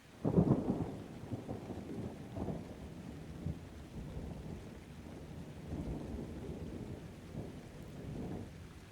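A thunderclap breaks sharply about a quarter second in, then rolls on as an uneven low rumble that swells and fades over several seconds, with rain beneath it.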